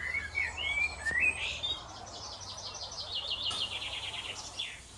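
Songbirds singing: twisting, warbling notes for the first second or two, then a fast run of repeated notes that drifts slightly lower and stops near the end.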